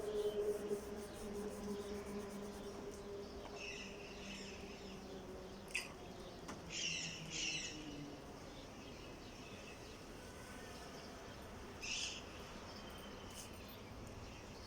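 Short bird chirps in the background, in small clusters about four, seven and twelve seconds in, over a faint steady hum that fades after the first few seconds, with one sharp click near the middle.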